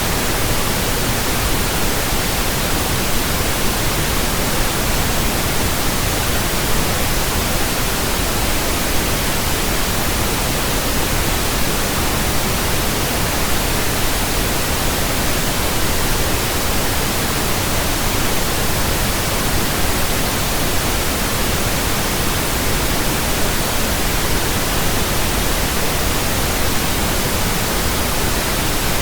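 Steady, unbroken pink noise from a pink noise generator, a burn-in signal for running in new speakers and headphones.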